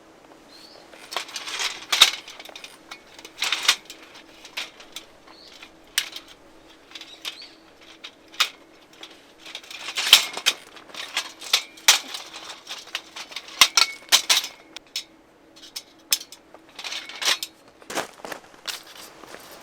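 Rustling and irregular light clicks and clatters of camping gear being handled, in uneven bursts over a faint steady hum.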